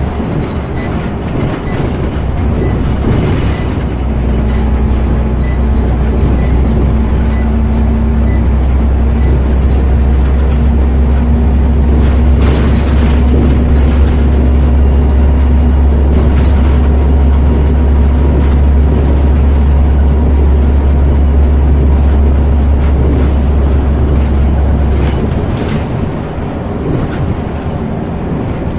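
Scania OmniCity single-decker bus heard from the front seat: its diesel engine drones steadily under way, with road noise, and eases off near the end. A light, regular ticking runs through the first several seconds.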